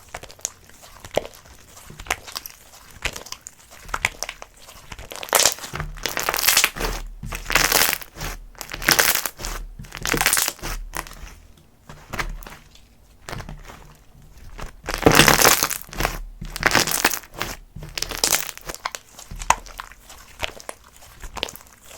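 Slime being squeezed and pressed by hand: a run of irregular noisy crackles and squishes, roughly one every half second to a second, with the loudest cluster about fifteen seconds in.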